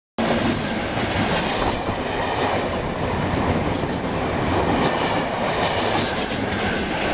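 Electric multiple-unit train running through close by: a steady loud rumble of wheels on the rails with faint rhythmic clicks and a thin high whine over it. It starts abruptly.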